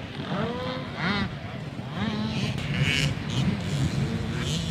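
Small 65cc two-stroke motocross bikes revving, their engine pitch rising in repeated sweeps about once a second as riders open the throttle, over the steady drone of other bikes on the track.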